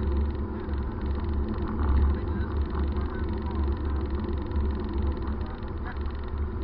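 Car running with a steady low drone and a noisy haze of road or engine sound above it, with faint voices in the background.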